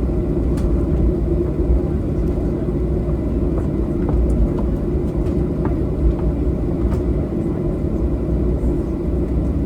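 Steady low rumble inside the cabin of a Boeing 737-800 on the ground before takeoff, with a few faint clicks.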